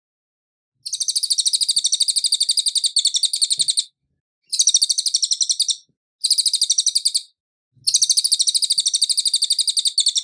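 Cililin birdsong: a fast, high, chattering trill of rapid even notes. It comes in four bursts of one to three seconds each, with short pauses between them.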